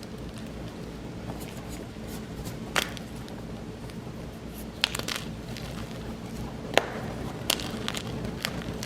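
Gym chalk blocks being crushed, giving scattered sharp crunches and crackles, the strongest about three, five and seven seconds in, over a steady low background.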